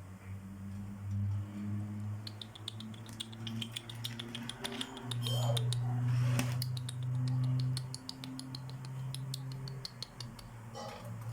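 Small birds chirping rapidly in quick high cheeps, with a low steady hum underneath.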